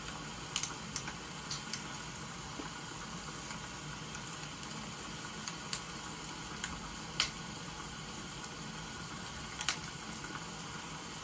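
Wood fire crackling: irregular sharp pops over a steady hiss. The loudest pop comes about seven seconds in.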